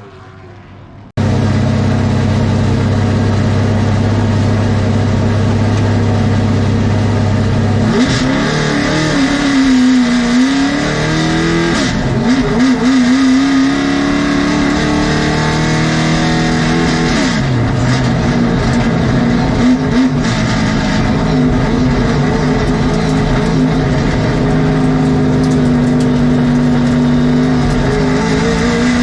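Late model stock car's V8 engine heard from on board, cutting in loud about a second in. It holds one steady note for several seconds, then falls and rises in pitch again and again as the car lifts for the turns and accelerates down the straights.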